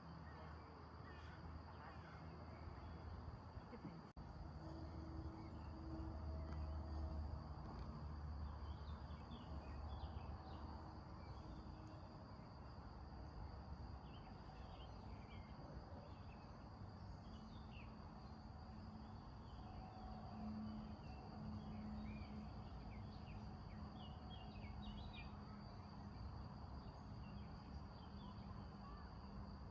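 Faint countryside ambience: a steady high insect buzz, with scattered bird chirps and a low rumble underneath.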